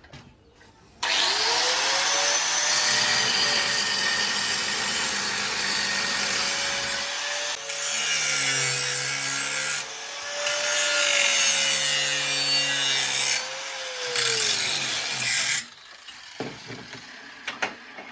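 Electric angle grinder spinning up about a second in and cutting through 12 mm mild-steel plate, its motor pitch dipping a little under load, then switched off and winding down near the end.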